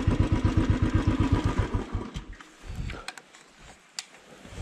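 Motorcycle engine idling with a rapid, even beat, then shut off about two seconds in; a few sharp clicks follow in the quiet.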